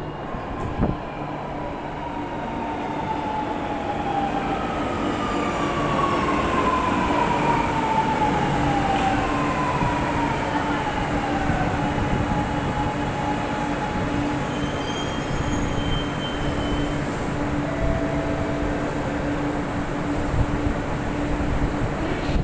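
Chennai Metro train pulling into the station: running noise and a steady hum, with the electric drive's whine gliding down in pitch several times as the train brakes. A short click comes about a second in.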